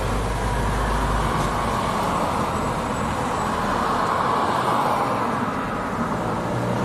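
Steady roar of a jet airliner's engines as the aircraft goes around, swelling through the middle, with wind rumbling on the microphone early on.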